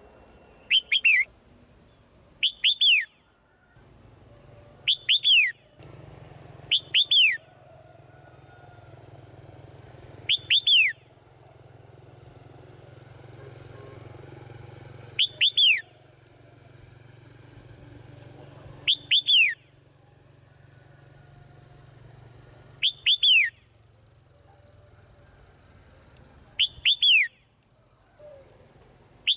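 Swallow calling: a quick pair of whistled notes sliding down in pitch, repeated nine times at uneven gaps of two to four seconds, over a faint steady hum.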